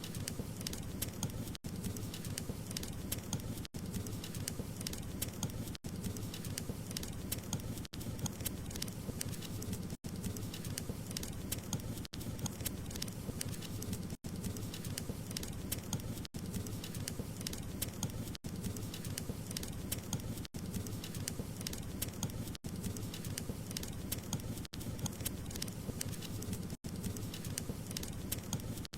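Wood fire in a fireplace crackling steadily: dense small pops and snaps over a low rumble of burning. The sound drops out very briefly about every two seconds.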